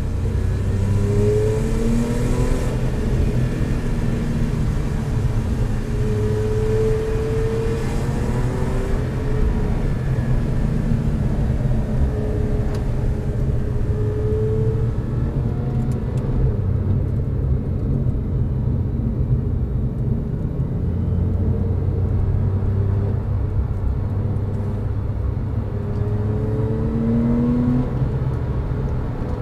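Porsche 911 (997.2) Carrera 4S flat-six with sport exhaust, heard from inside the cabin at highway speed: a steady low drone over tyre and road rumble, with the engine note rising in pitch several times as it pulls harder.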